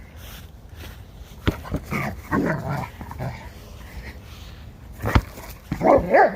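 A sheepadoodle vocalizing in play, short growls and barks, the loudest near the end, with two sharp knocks, one about a second and a half in and one about five seconds in.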